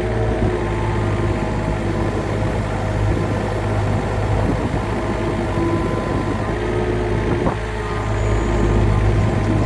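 A heavy machine's diesel engine running steadily, with shifting higher tones over a strong low drone. It gets somewhat louder near the end.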